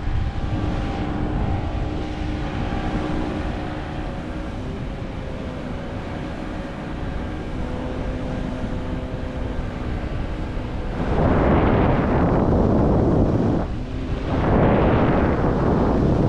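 Wind rushing over the microphone with a steady drone of several tones beneath it. About eleven seconds in the wind grows much louder in gusts, dropping off briefly and then returning.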